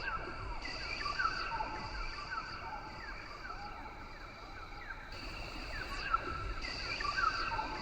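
Rain forest ambience: many short animal calls, each falling in pitch, repeat throughout over a steady high insect drone.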